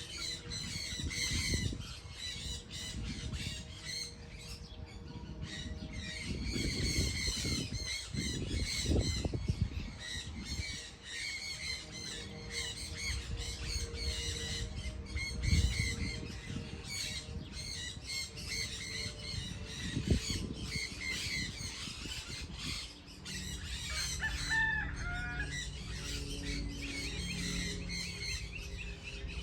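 A flock of birds calling continuously in a dense chorus of short, repeated chirps and squawks. A few low rumbles cut in at intervals, and a lower warbling call stands out near the end.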